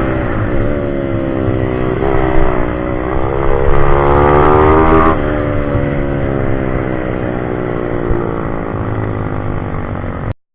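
Pit bike's single-cylinder engine under way: the revs climb for a few seconds, drop sharply about five seconds in, then run on fairly steadily before the sound cuts off abruptly near the end.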